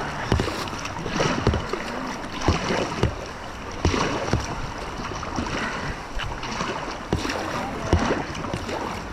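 Rushing river water around a kayak, with short irregular splashes and knocks every half second or so.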